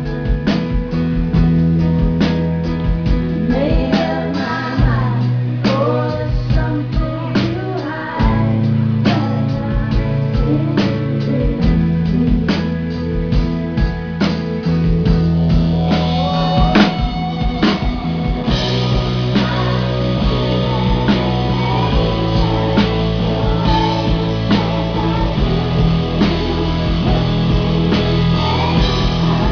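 A live electro-rock band playing, with a regular drum beat, guitar and held bass notes that change every few seconds. A woman sings mainly in the first third. About two-thirds of the way in the band gets fuller, with heavier cymbals.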